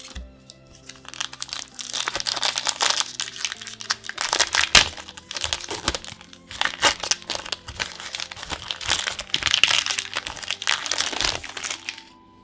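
Foil booster-pack wrapper being crinkled and torn open by hand: a dense run of sharp crinkling and crackling that starts about a second in and stops just before the end, over quiet background music.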